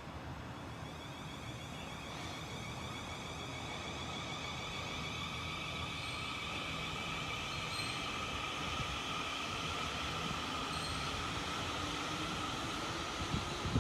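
Train on the line with a steady whine of several high tones, slowly rising in pitch and growing gradually louder over rumbling wheel noise.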